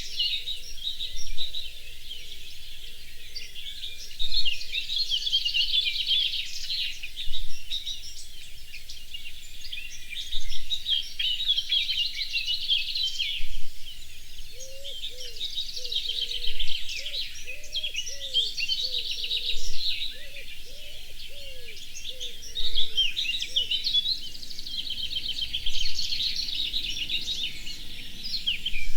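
A chorus of several songbirds singing at once, dense and continuous, with one louder song phrase coming about every three seconds. In the middle, a run of lower-pitched, short, arching calls joins the chorus.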